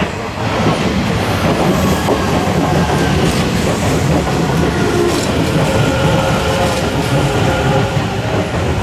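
Hanshin Railway electric commuter train passing close by, a loud steady rumble with the clatter of its wheels over the rail joints.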